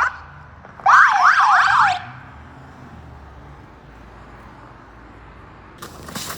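Electronic siren warbling in a short burst of rapid up-and-down sweeps, about four in a second, then steady low background noise. Near the end a run of rough crunching noises begins.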